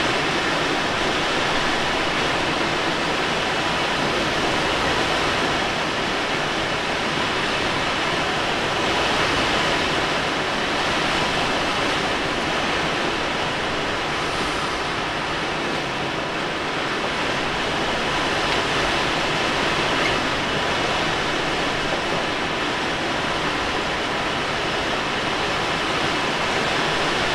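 Steady rush of airflow around a Let L-13 Blaník glider in flight, heard from inside the cockpit, swelling and easing slightly.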